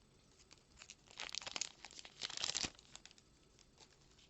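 Foil wrapper of a Magic: The Gathering booster pack being torn open and crinkled, in two bursts of crackling about a second and two seconds in.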